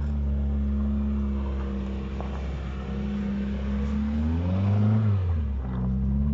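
Proton Wira race car engine idling steadily, with one brief rev that rises and falls again about four seconds in.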